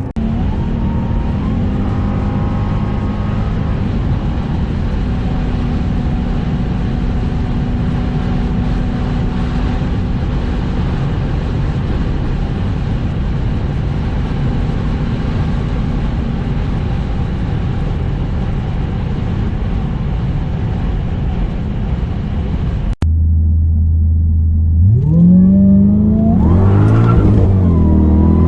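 Cadillac STS-V's supercharged 4.4-litre Northstar V8 running steadily under way, a constant engine drone with road noise. After a sudden break near the end it idles, then revs up sharply, drops back and holds a higher steady note.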